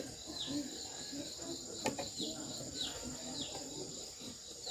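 A bird repeating a short, high, falling chirp over and over, about one and a half times a second, over a steady high insect-like whine. A single sharp click about two seconds in.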